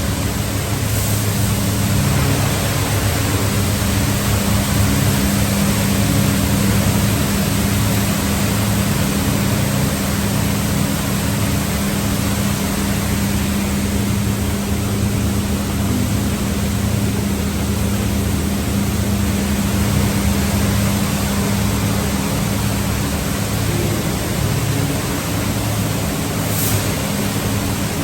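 Automatic car wash tunnel running: a steady rush of spraying water over a constant low hum of pumps and motors.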